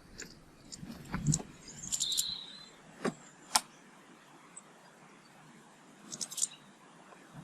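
Short high chirps of small garden birds in two brief clusters, about two seconds in and again near the end, with a few sharp taps in between.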